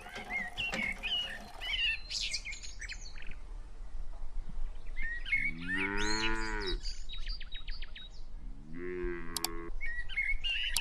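A cow mooing twice, a long moo about halfway through and a shorter one near the end, with small birds chirping throughout.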